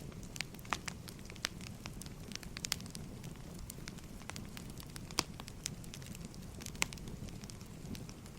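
Burning firewood crackling: irregular sharp pops and snaps, a few of them louder, over a steady low rumble of the fire.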